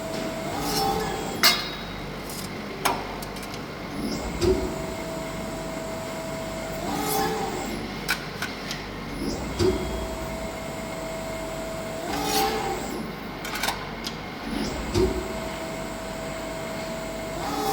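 Bystronic Xpert 80 CNC press brake working through repeated bending strokes. A steady machine whine steps up in pitch at each stroke, followed by clicks and knocks, and the cycle repeats about every five seconds.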